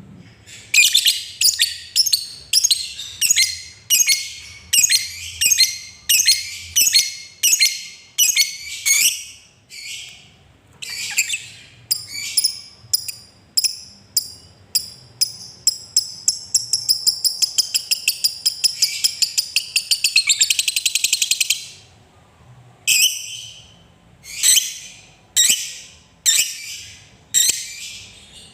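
Lovebird giving sharp, shrill calls at about one or two a second. Just past the middle they run together into a fast chattering trill, the long 'ngekek' valued in fighter lovebirds, lasting about five seconds. Then it goes back to single calls after a brief pause.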